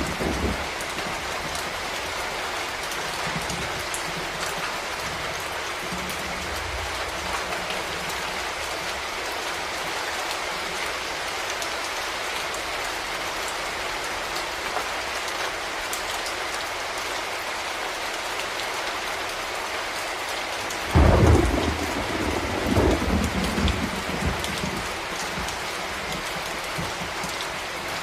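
Steady rain falling. About three-quarters of the way through, a thunderclap breaks in suddenly and rolls on in a low rumble for a few seconds.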